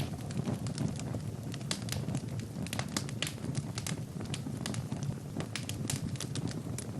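Wood fire burning in a fireplace: logs crackling and popping at irregular moments, over a low, steady rumble of the flames.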